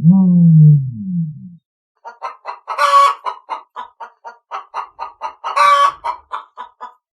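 A chicken clucking in a quick, even run of about four clucks a second, broken twice by a louder squawk. It follows a low, falling call in the first second and a half.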